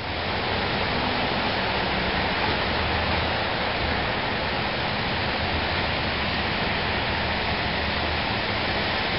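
Steady rain falling, an even hiss with no letup, over a faint low hum.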